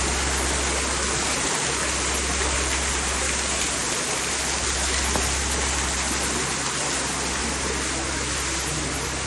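Rain falling steadily: a dense, even hiss with a low rumble underneath.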